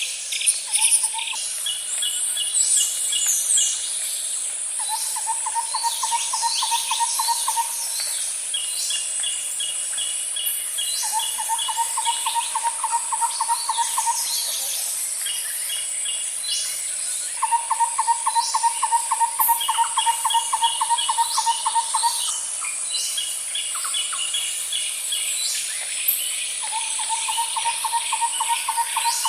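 Nature ambience: a steady high insect drone, with a low pulsed trill lasting a few seconds that repeats about every six seconds. Short runs of chirps and quick falling bird calls sound between the trills.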